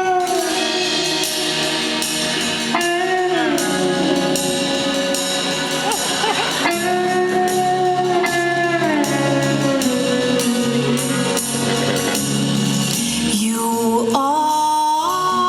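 Live band playing a slow song's introduction, with long held notes that slide down in pitch several times; a woman's sung voice comes in near the end.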